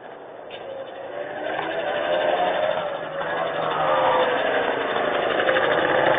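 A motor vehicle's engine running, growing louder over the first few seconds and then holding steady.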